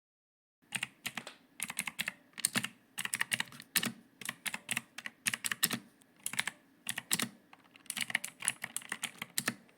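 Typing on a computer keyboard: irregular, quick key clicks, starting about a second in.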